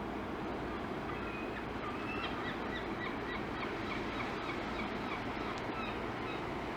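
Birds calling in a quick run of short notes, starting about half a second in and stopping near the end, over a steady rushing background noise.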